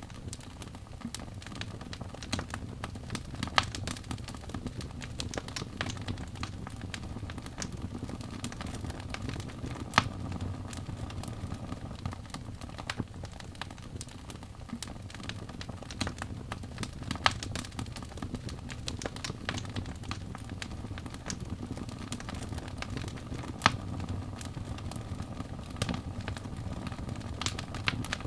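Fire crackling in a fireplace: a steady low rumble of flames under constant small crackles, with a few louder sharp pops spread several seconds apart.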